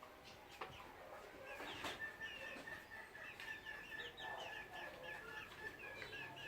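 Chickens clucking and chirping faintly, many short high calls several a second, with a few clicks and a steady thin high tone that starts about a second and a half in.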